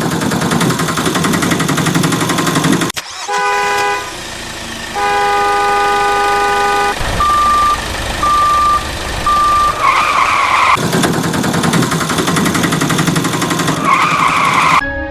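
Vehicle engine running, with horn honks over it: a short blast, a longer blast, then three short beeps.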